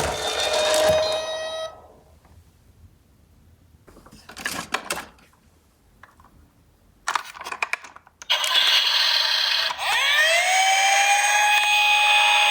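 Electronic siren sound effect from a toy emergency-vehicle minicar: a siren tone cuts off about two seconds in, followed by a short rattle and a few clicks. From about eight seconds a loud electronic siren starts again, with a tone that rises near ten seconds and then holds steady.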